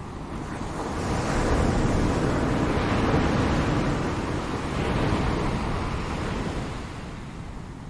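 Ocean waves breaking on a shore: a wash of surf that swells about a second in, holds for a few seconds and slowly ebbs away.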